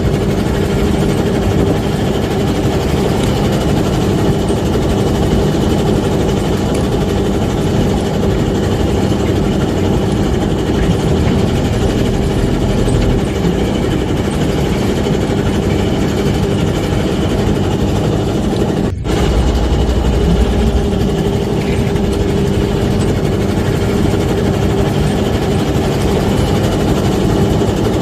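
A small fishing boat's engine running steadily, a loud even drone with a steady hum in it, broken once by a brief dropout about two-thirds of the way through.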